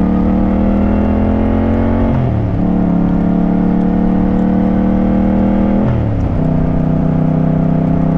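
Motorcycle engine pulling steadily with the revs slowly climbing, then dropping sharply twice, about two seconds in and again about six seconds in: upshifts through the gears while accelerating.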